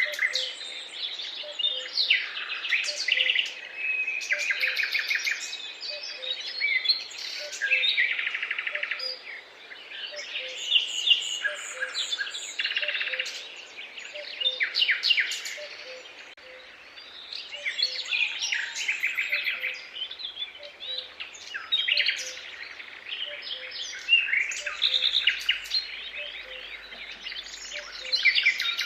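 A chorus of songbirds singing together, many overlapping trills and chirps without a break, with a soft low note repeating evenly underneath.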